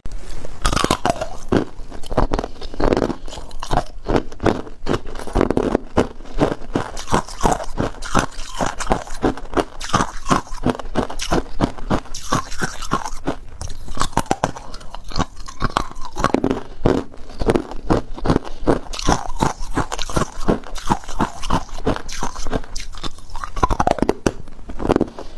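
Someone biting and chewing ice, a steady run of loud, crackly crunches close to the microphone.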